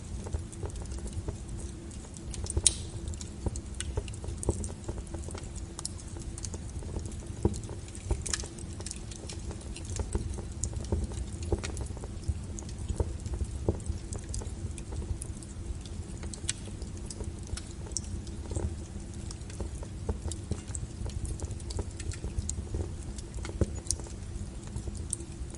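Wood fire burning with a steady low rumble and irregular crackles and pops, with sharper snaps about 3 and 8 seconds in.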